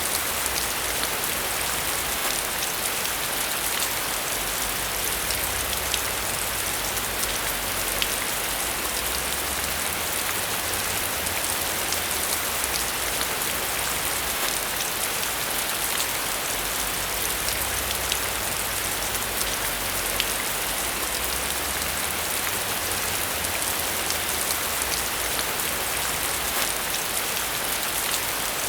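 Steady rain, a dense even hiss of falling rain with many individual drops pattering on a surface.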